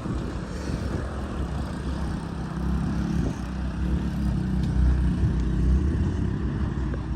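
Sakai road roller's diesel engine running steadily with a low, even hum.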